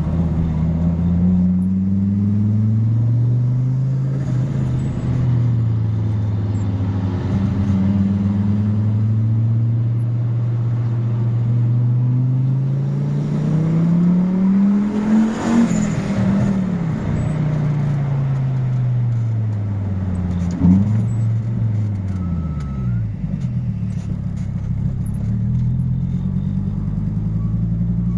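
Turbocharged inline five-cylinder engine of a Fiat Marea 2.0 20V, tuned to run on ethanol, accelerating hard. Its pitch climbs to a high peak about halfway through, then falls as it comes off the throttle. A single sharp pop comes near three quarters of the way in, and it drops back to a steady idle near the end.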